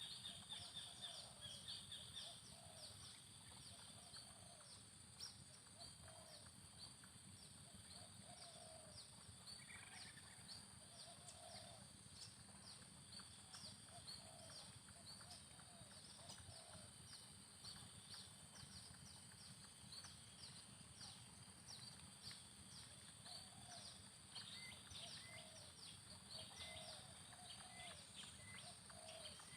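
Faint, low cooing of a spotted dove, repeated every second or two, with short high bird or insect ticks and a steady high insect drone behind it.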